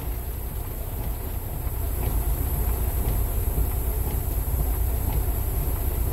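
Heavy rain drumming on a truck cab, heard from inside, over the steady low rumble of the truck's engine.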